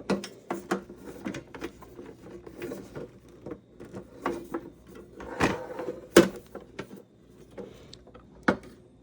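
Scattered clicks, taps and knocks of a metal bird feeder being handled while someone tries to lift its roof open. A few sharper knocks come in the second half.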